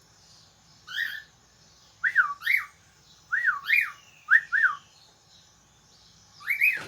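A pet bird calling: clear whistled notes, mostly in quick pairs that rise and fall, repeated about once a second. A sharp knock comes at the very end.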